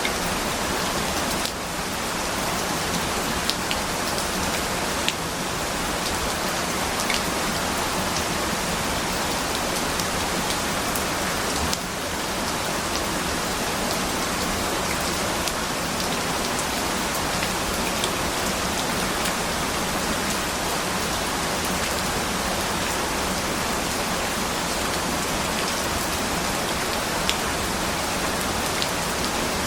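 Steady rain falling on a surface: an even hiss dotted with scattered sharp drop ticks.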